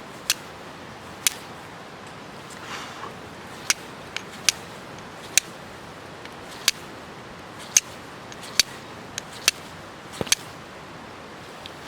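Flint-and-steel strikes: a carbon steel striker hitting a rock, about a dozen sharp scraping clicks at uneven intervals of roughly a second. The sparks are not catching on the char cloth.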